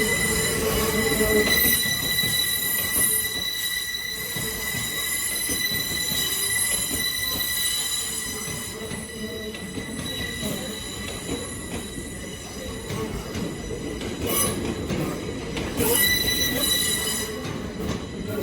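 Hitachi Class 800 train at the platform giving a steady, high-pitched whine of several stacked tones over a low rumble. The whine fades in the middle and swells again near the end.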